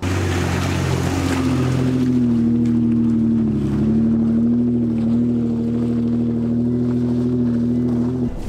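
Off-road vehicle's engine running steadily under load as it climbs a steep rocky trail, with a slight dip in pitch about three and a half seconds in; the sound cuts off suddenly near the end.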